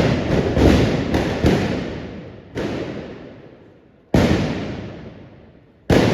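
Trabucs (blunderbusses) fired with black-powder blank charges. A ragged run of about five shots comes in the first second and a half, followed by three single shots spaced roughly a second and a half apart. Each bang rings on and fades over a second or more.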